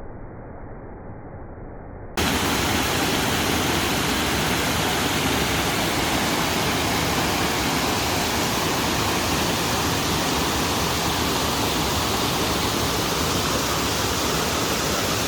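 Waterfall rushing: a steady, even wash of falling water, muffled for the first two seconds, then cutting suddenly to a louder, fuller rush that holds steady.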